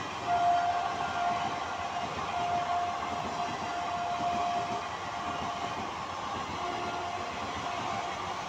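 Freight train of covered wagons running through the station at speed without stopping: a steady, even noise of wheels on rail. A faint thin high tone comes and goes through the first five seconds.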